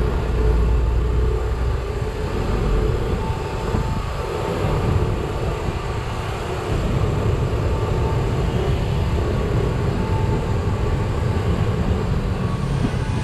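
Train running through a station: a steady rumble that gets a little louder about halfway through.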